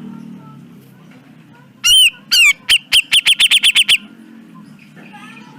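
Cucak jenggot (grey-cheeked bulbul) calling: two loud arching notes, then a rapid, harsh run of about ten sharp chirps at some eight a second, stopping after about a second.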